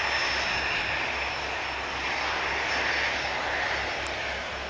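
Pilatus PC-12 single-engine turboprop running, a steady noise with a thin high whine, slowly fading.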